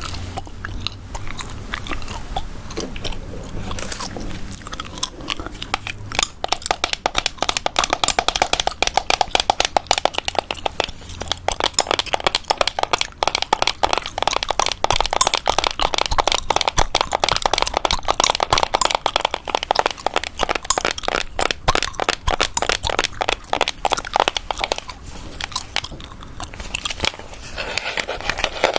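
Gum chewed close to the microphone with quick tapping on objects: a dense run of small wet clicks and crackles that picks up about six seconds in and thins out near the end.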